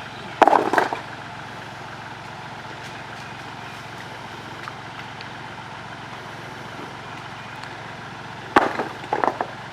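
Kubota tractor engine running steadily, with two short bursts of sharp clattering knocks, one about half a second in and one near the end.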